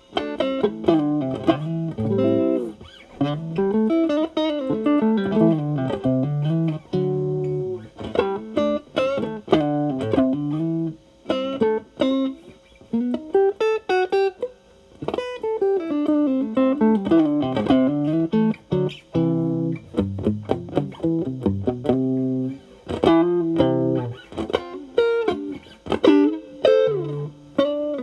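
Fender Stratocaster electric guitar played through an Xotic AC Plus overdrive pedal with its gain at zero, into a Marshall Valvestate amp. It plays single-note runs that climb and fall, broken by chords and short pauses.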